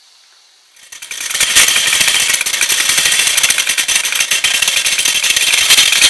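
Wilesco D18 toy steam engine set going and driving a belt-driven Wilesco model workshop, whose machines start a loud, fast, dense rattling clatter about a second in, after a faint hiss.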